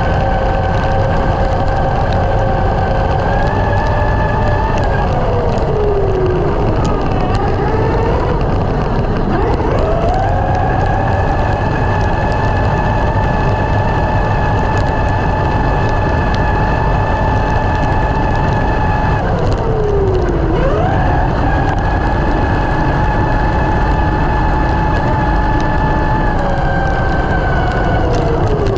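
A small electric motor's high whine, holding a steady pitch, then winding down and back up to speed twice, and winding down again near the end.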